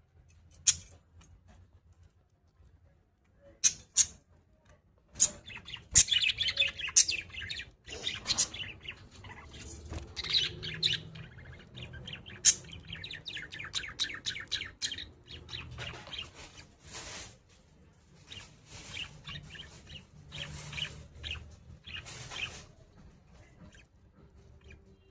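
Pet cage birds chirping and chattering in quick runs of high chirps, broken by a few sharp clicks.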